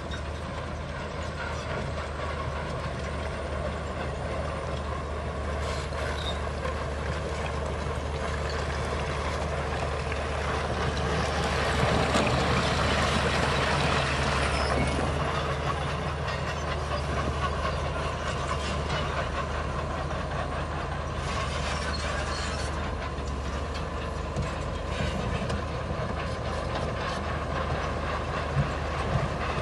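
Bulldozer's diesel engine running steadily under work, getting louder and rougher for a few seconds near the middle.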